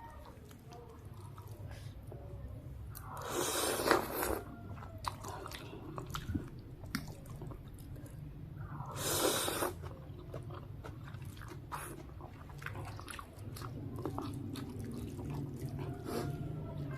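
A person eating noodle soup close to the microphone: wet chewing and small mouth clicks throughout, with two louder rushing sounds about a second long, a few seconds in and again about halfway through.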